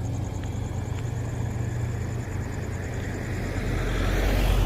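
Road traffic: a steady low engine hum, with a vehicle passing close by near the end, its noise swelling and then fading.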